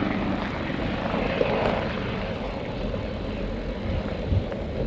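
Firefighting helicopter running steadily close by as it comes in to land, a continuous rotor and engine rumble.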